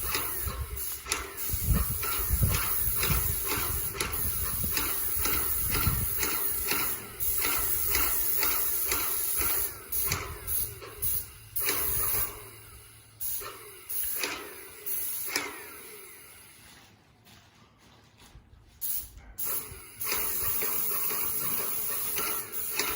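Paint sprayer hissing as doors are spray-painted, the spray switching on and off in repeated bursts, with a quieter pause of a few seconds about three-quarters of the way through.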